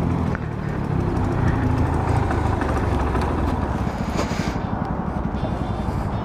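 Skyteam Dax monkey bike's small single-cylinder engine running steadily while riding, with wind noise on the helmet microphone.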